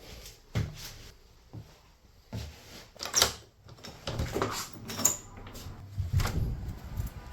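A series of irregular knocks, clicks and clatters, with the loudest sharp click about three seconds in.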